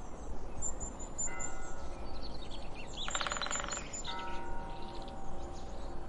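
Birds chirping, with a fast trill about three seconds in, over a steady low rumble. Sustained chime-like tones sound twice, starting just after one second and again about four seconds in.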